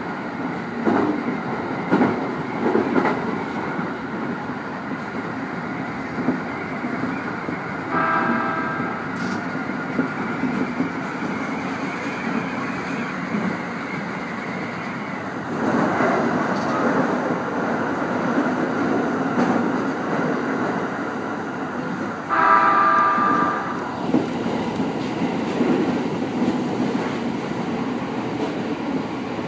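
E501-series electric train running, heard from the driver's cab: wheels click over rail joints, and the running noise grows louder as the train enters a tunnel about fifteen seconds in. A short horn blast sounds twice, about eight seconds in and again about twenty-two seconds in.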